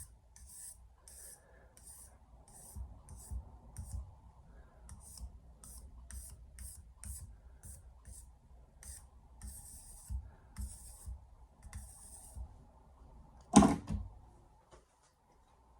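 Quick, short scratching strokes on a 1000-grit soaking whetstone, about two a second, as the stone is checked for flatness. A single loud knock near the end.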